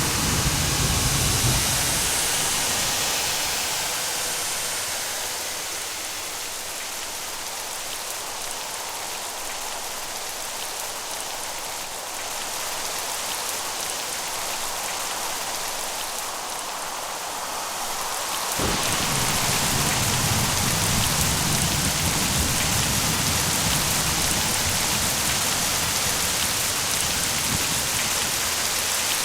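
Steady heavy rain, with the last of a thunder rumble dying away in the first couple of seconds. About two-thirds of the way through, the rain abruptly becomes louder and fuller.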